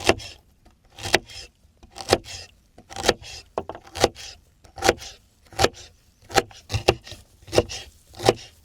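A knife chopping food on a wooden board, one cut about every second: each stroke a sharp knock with a short rasp after it, with two strokes close together near the end.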